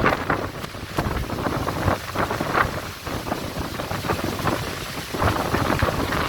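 Strong gusty wind rumbling on the microphone and rushing through trees and grass, rising and falling in repeated gusts.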